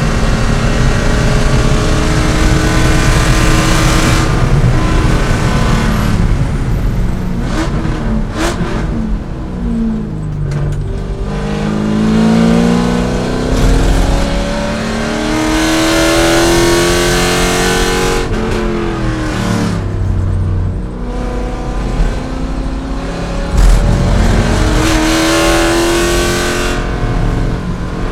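C5 Corvette's V8 engine at race pace, climbing through the revs under acceleration and dropping sharply in pitch when lifting and braking, twice, before pulling hard again.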